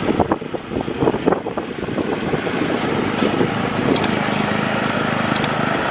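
Scraping strokes in the first couple of seconds, then a small engine running steadily and slowly growing louder, typical of a snowblower at work in snow.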